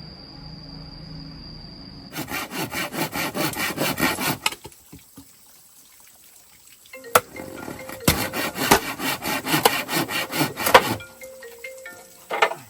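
Hand saw cutting through wood in quick back-and-forth strokes, about five a second, in two bouts with a short pause between them.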